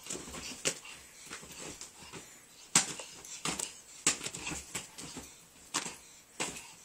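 A cat breathing noisily and wheezily, a run of irregular short breath sounds with a few louder ones.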